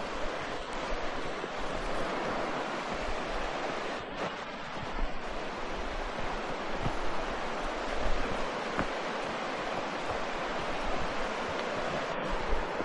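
Steady rush of water from a waterfall, an even unbroken noise.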